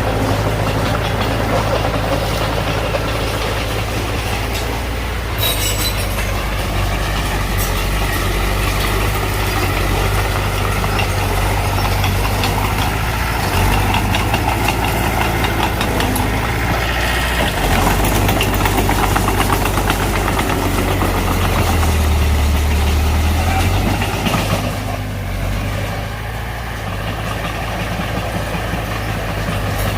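Diesel engine of earth-moving machinery running steadily. The low engine note swells briefly about three-quarters of the way through, then eases off.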